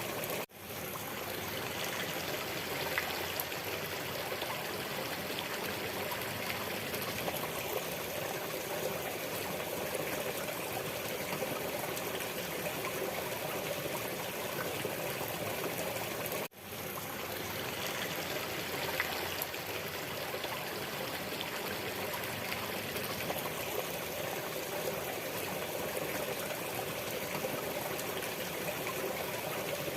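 A waterfall making a steady rush of falling water. The sound drops out briefly twice, about half a second in and again about sixteen seconds in, each time fading straight back in.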